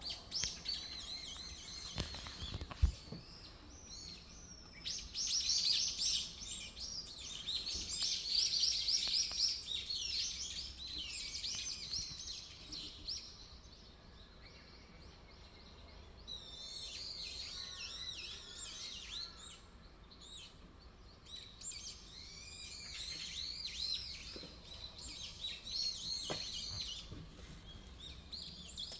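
Several songbirds chirping and singing together in a dense, busy chorus of short high calls. It thins out briefly midway, then picks up again. A single sharp knock sounds near three seconds in.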